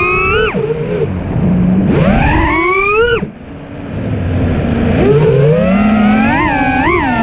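FPV racing quadcopter's brushless motors and T-Motor 4943 propellers whining as the throttle is punched and chopped: the pitch climbs steeply, drops off about half a second in, climbs again to a sharp cut about three seconds in, then rises back with a wobbling pitch that peaks twice near the end. One banged-up T-Motor F40 Pro 4 motor gives the tune a bit of an angry edge.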